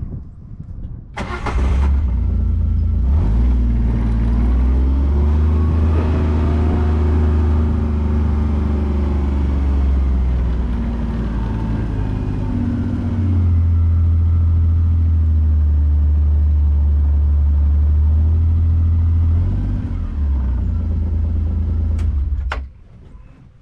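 A vehicle engine starting about a second in, then running and changing speed as it is driven, and shutting off suddenly near the end.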